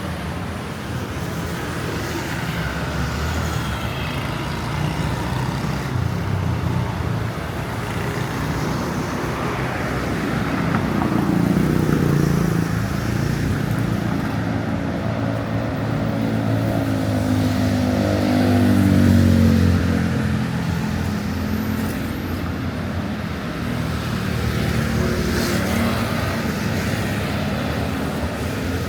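City street traffic: steady road noise of passing cars and motorbikes. One engine grows louder and its pitch rises and falls from about 11 seconds in, loudest near 19 seconds.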